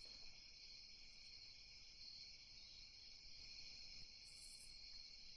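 Faint, steady chorus of crickets chirping from a night-sounds ambience bed.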